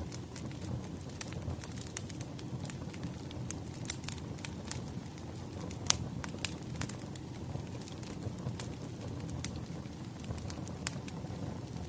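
Wood fire crackling: scattered sharp pops and snaps over a low steady rumble, with the loudest pop about six seconds in.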